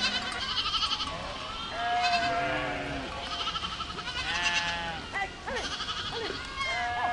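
A herd of goats bleating, many overlapping calls at different pitches, some high and quavering, some lower and held.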